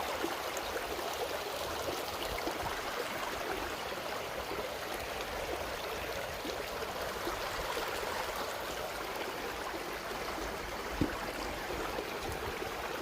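Creek water running steadily, an even rushing and gurgling, with one brief knock about eleven seconds in.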